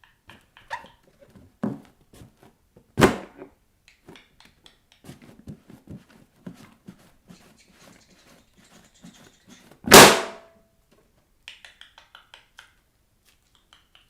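Balloons squeaking and scraping under bare feet, with small clicks and rubs. Two loud bangs as balloons burst, about three seconds in and again about ten seconds in.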